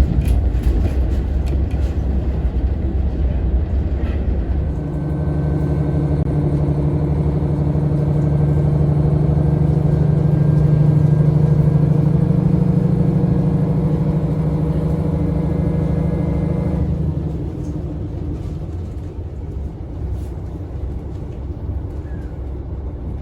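Diesel railcar of the Donan Isaribi Railway (a KiHa 40) running over the rails with a low rumble; about five seconds in its diesel engine's steady drone comes in, grows louder, and drops away again about seventeen seconds in.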